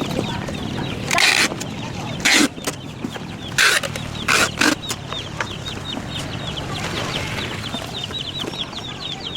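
A crowd of chicks peeping continuously, fast short high chirps, with about five loud short bursts of noise between one and five seconds in.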